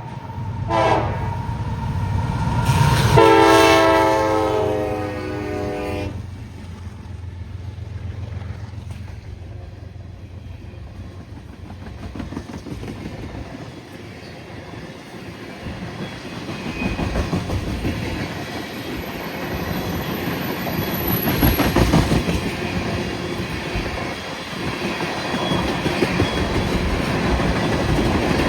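Freight train passing. The locomotive's horn sounds a short blast and then a longer one of about three seconds over the diesel rumble. The steady rumble and clickety-clack of freight cars rolling by follows, growing louder in the second half.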